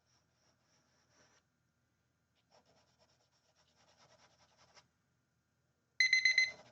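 Charcoal pencil scratching faintly on paper in quick strokes. About six seconds in, a timer alarm starts beeping loudly in a fast electronic pattern, marking the end of a timed sketch.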